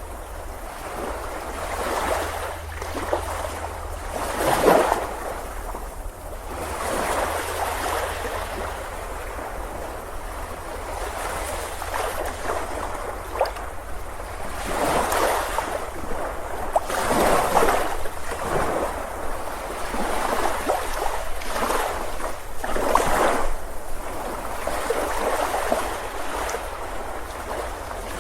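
Ocean surf breaking on a beach: a continuous wash of water with waves surging and falling back every few seconds, a few breaking louder than the rest.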